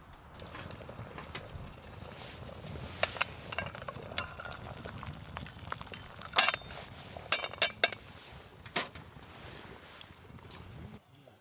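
Metal camp cookware and utensils handled, with a few sharp clinks and taps over a steady low background.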